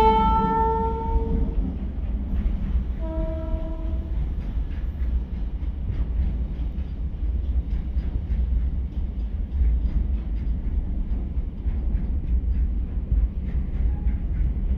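WAG-12B electric freight locomotive's horn: a long blast tails off just after the start, and a short second blast sounds about three seconds in. After that, a loaded container freight train rolls past with a steady low rumble and the clickety-clack of wagon wheels over rail joints.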